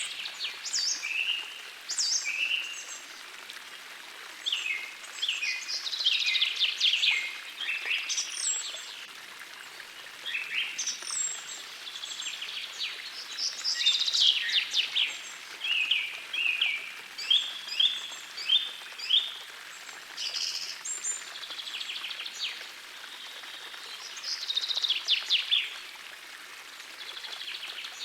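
Songbirds singing: repeated bursts of quick trills and chirps, with a run of evenly spaced loud notes past the middle, over the faint steady rush of a gentle forest stream.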